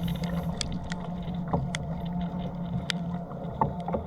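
Water splashing and lapping around a fishing kayak in rough, rainy seas, with scattered sharp drips and ticks, over a steady low hum.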